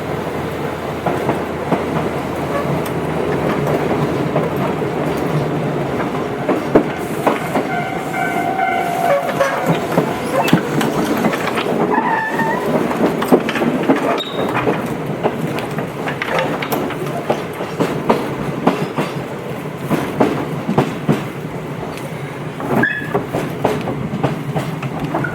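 Tobu 8000 series electric train running along the line, wheels clicking over rail joints throughout, with brief high-pitched tones near the middle.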